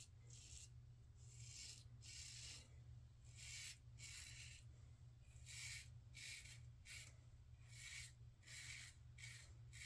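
Razor blade scraping through lathered beard stubble in about a dozen short, quick strokes, some in pairs, during an across-the-grain shaving pass.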